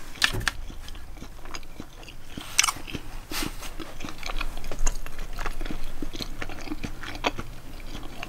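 A person chewing a mouthful of homemade chicken quesadilla: a string of irregular short mouth clicks and bites.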